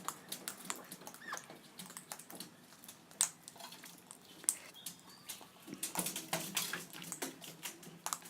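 Birds feeding on seed: irregular sharp clicks and taps of beaks pecking and cracking seed, with a brief soft call.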